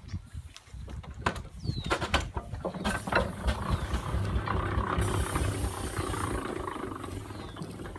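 Steam engine being backed up: a few knocks and clanks, then steady running with a rumbling steam hiss and a low hum. A sharper high hiss of steam comes about midway.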